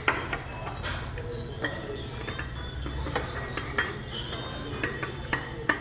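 Spoons and chopsticks clinking against bowls and dishes while eating, about eight separate sharp clinks over a steady low hum.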